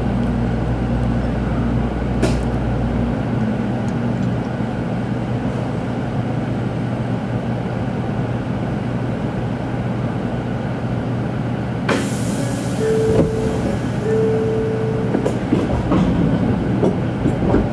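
Shinkansen passenger-cabin noise as the train slows into a station: a steady running rumble. About twelve seconds in a sudden hiss starts, and two short steady tones follow soon after.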